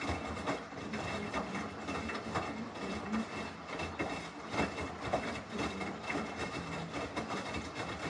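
Samsung washing machine's drum turning partway through a normal cycle: the motor runs steadily while the wet load tumbles, with many small knocks and rattles.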